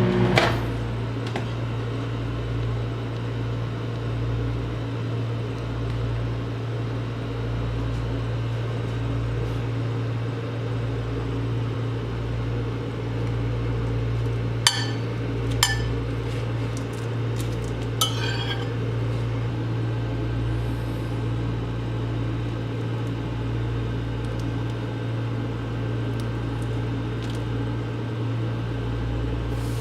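Microwave oven running with a steady low hum. A louder pitched hum with overtones cuts off with a click just after the start, and three sharp clicks come about halfway through.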